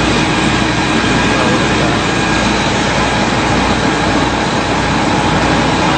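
Fire truck's engine idling: a steady, loud, even running sound with a low hum.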